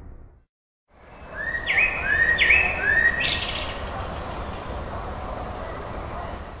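Bird chirping about four times in quick succession, each call a short upward-sweeping whistle, over a steady outdoor background hiss.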